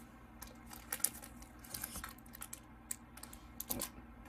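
Scattered light clicks and taps of cardboard and plastic packaging being handled as a box is opened and its contents lifted out.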